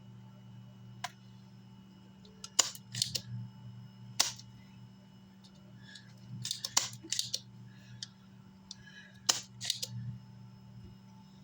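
Small tools and parts handled on a workbench: a series of sharp clicks and taps in irregular clusters, the loudest about two and a half, four and nine seconds in, over a steady low hum.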